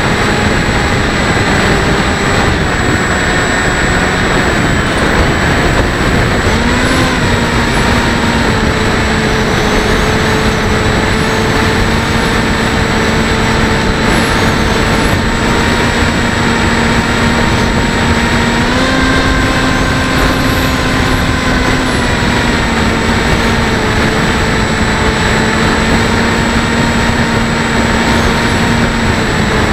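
Bixler 1.1 RC plane's electric motor and propeller running, heard from a camera on the airframe under loud wind rush. The motor's pitch steps up about seven seconds in, rises again around nineteen seconds and drops back a few seconds later.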